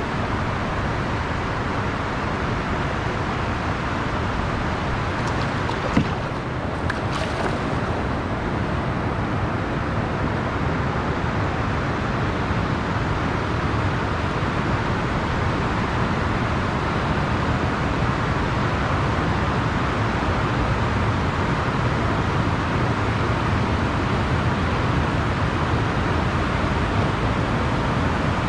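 Steady rush of water pouring over a river weir, with a single sharp knock about six seconds in.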